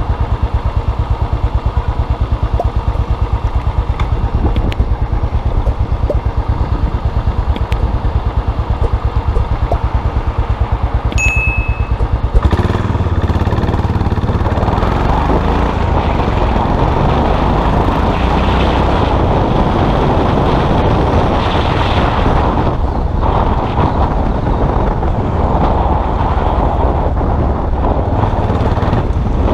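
Custom motorcycle engine running with a steady low pulsing beat. About twelve seconds in it turns suddenly louder and fuller, with a rushing noise over it, as the bike gets under way.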